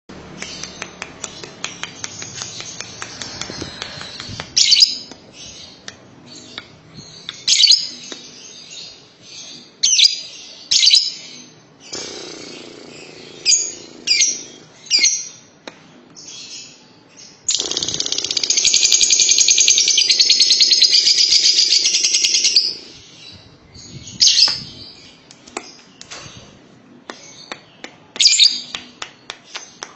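Lovebird calling: sharp, shrill high calls at irregular intervals, and about halfway through a loud, continuous rapid chattering trill lasting about five seconds. This is the long 'ngekek' song that lovebird keepers prize.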